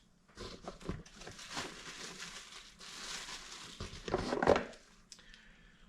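Packaging crinkling and rustling as pressure-washer parts are handled and lifted out of the box, with a louder burst of handling about four seconds in.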